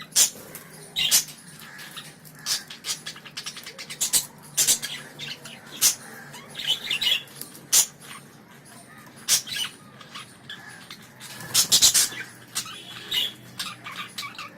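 Budgerigars chirping and chattering, with sharp clicks and knocks scattered throughout and a quick cluster of them about twelve seconds in.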